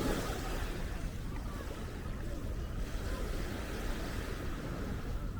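Wind rumbling on the microphone over a steady wash of small waves on a sandy beach.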